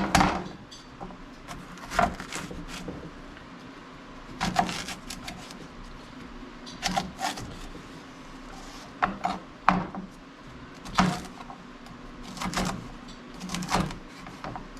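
Knife knocking on a cutting board while jalapeño peppers are cut, in about ten separate irregular knocks spread a second or two apart.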